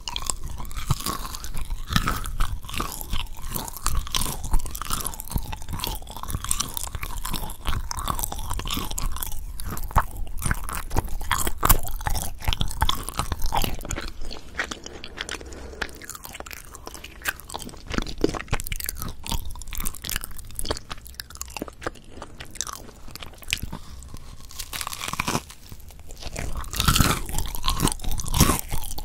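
Close-miked chewing of a soft potato bread with its mashed-potato filling, full of small mouth clicks and smacks. It is busier in the first half, eases off in the middle and picks up again near the end.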